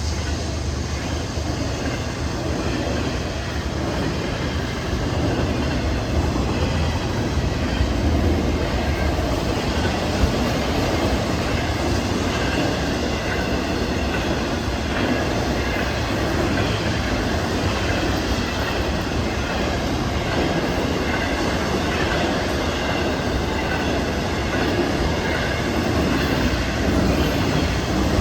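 Long Florida East Coast Railway freight train rolling past at speed, its wheels clacking over the rail joints in a steady, loud rumble.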